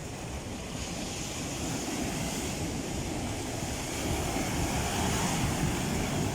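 Rough sea surf washing onto the shore, a steady rush of waves that swells louder about two-thirds of the way through.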